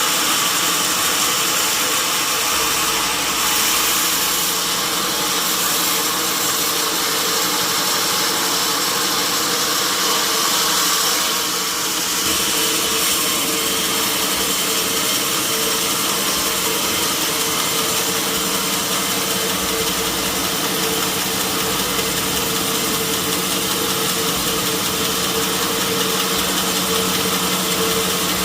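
Sawmill machinery running steadily: a constant mechanical hum with a steady whine over a bright hiss.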